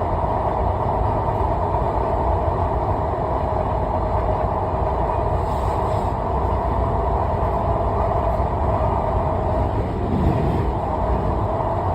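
Steady rolling rumble of a train running at speed.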